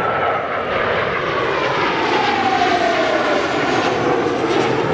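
Blue Impulse Kawasaki T-4 jet trainer making a low pass: loud jet-engine roar that swells at the start, with a turbine whine falling steadily in pitch as it goes by.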